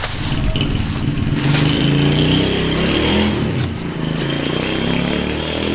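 A motor engine running close by, its pitch rising and falling, loudest around two to three seconds in.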